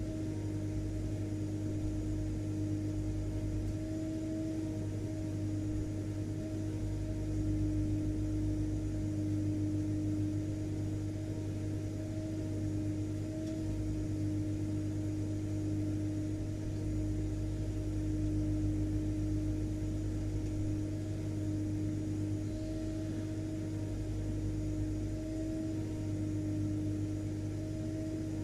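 Vacuum cleaner (hoover) running steadily: a constant motor hum with a steady tone and a fainter higher one, over an even rush of air.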